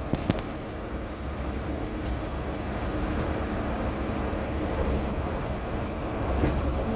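Cabin noise of a Yurikamome rubber-tyred automated guideway train running along its concrete guideway: a steady low rumble and hiss with a faint motor hum. A couple of light clicks sound in the first half second.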